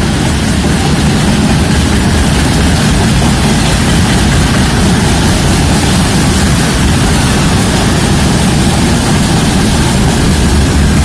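Freight train's tank cars and open gondola wagons rolling past close by: a loud, steady rumble of steel wheels on the rails.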